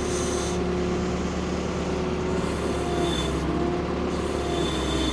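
Ford P-42 excavator's engine running steadily under load, with a hydraulic whine that comes and goes as the boom and bucket are worked.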